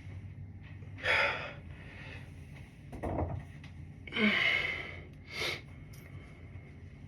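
A person breathing hard: four short, forceful breaths, the loudest about four seconds in.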